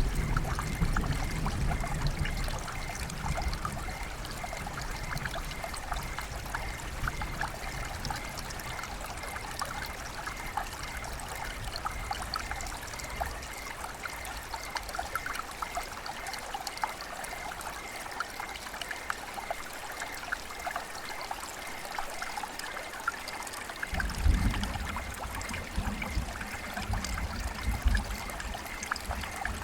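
River water flowing and trickling in a steady stream of small splashes, with a low rumble in the first few seconds and again near the end.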